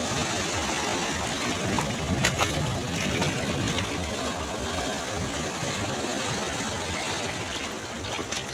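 Sea waves breaking and washing on a shore: a steady rush of surf, with a few brief crackles, the loudest about two seconds in.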